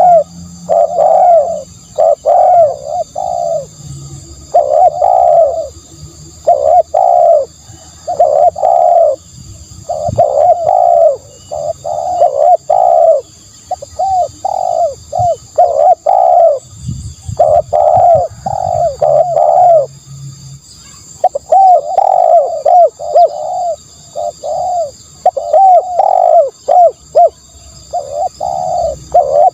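Spotted dove cooing over and over, in runs of short, loud, pitch-curving coos separated by brief pauses. A faint steady high-pitched hum sits underneath.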